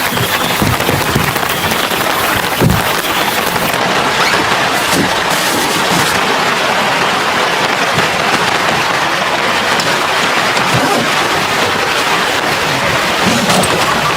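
Heavy rain pouring steadily, with a few brief dull knocks.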